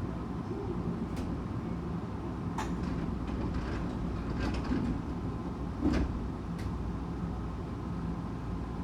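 Tokyu 8500 series commuter train heard from inside the car while under way: a steady rumble of wheels on rail with a steady hum, and scattered knocks and rattles from the car body, the loudest about six seconds in.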